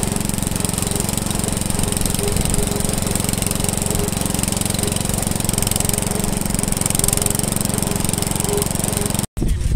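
Small engine running steadily at an even speed, with fast regular firing pulses; it cuts off suddenly near the end.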